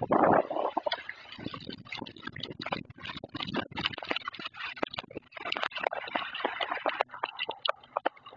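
Summer storm: a rush of wind and rain with many irregular sharp taps of drops striking a hard surface, loudest in the first half second.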